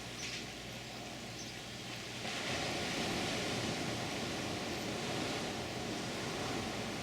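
Heavy ocean surf breaking on the shore, a steady wash of noise that swells louder about two seconds in as a wave breaks.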